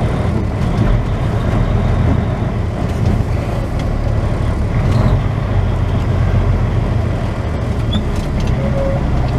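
Semi-truck's diesel engine running steadily at low speed, a continuous low drone heard from inside the cab.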